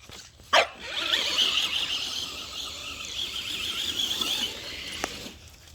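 Electric motor and gears of a homemade radio-controlled truck whining steadily as it drives for about three and a half seconds, after a short sharp squeal about half a second in. A single click comes near the end.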